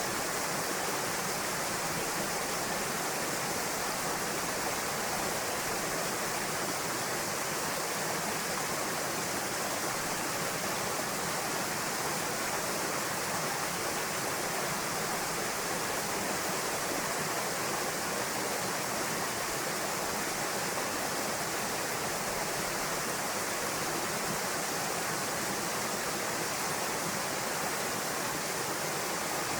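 Small waterfall pouring into a pool: a steady, even rush of falling water that doesn't change.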